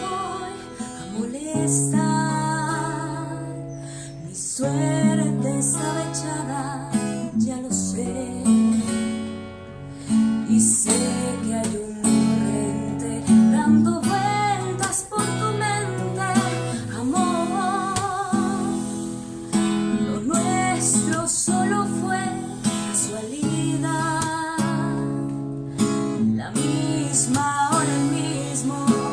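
Strummed acoustic guitar accompanying a singing voice in a slow ballad.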